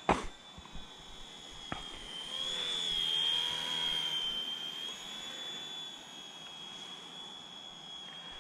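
Small electric RC helicopter in flight: a steady high-pitched motor and rotor whine that grows louder from about two seconds in, then eases back. There is a sharp click right at the start and a fainter one a little later.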